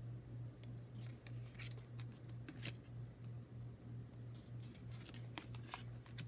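Soft clicks and rustles of tarot cards and packaging being handled, over a steady low hum that pulses about three times a second.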